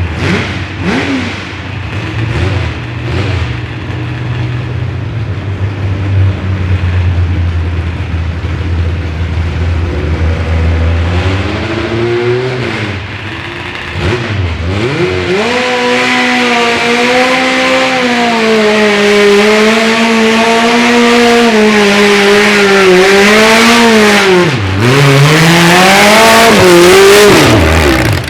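Multi-engine modified garden tractor running loud. A low steady hum gives way about halfway through to a high revving note that holds, wavering. The pitch drops sharply and recovers twice near the end.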